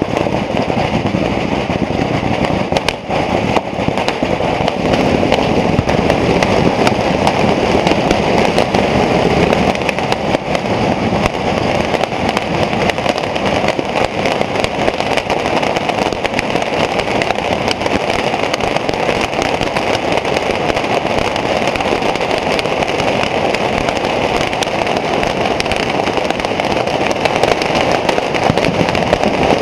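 A bottle-rocket wall firing into the crowd in one continuous barrage: a loud, unbroken din of hissing and crackling, thick with countless sharp pops, that keeps going without a break.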